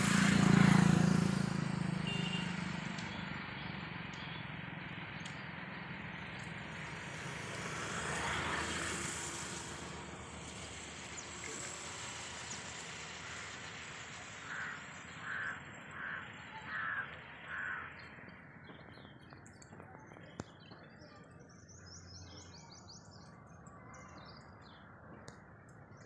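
Outdoor ambience by a stream: a low rumble at the start, then a bird calling five times in quick succession in the middle, and faint high bird chirps near the end.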